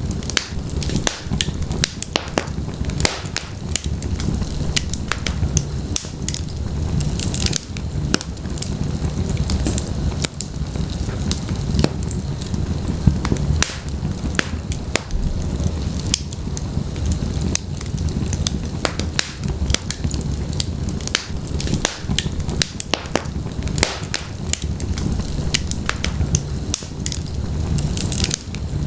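Wood fire of burning logs in a fireplace: a steady low rumble of flames with frequent irregular sharp pops and crackles.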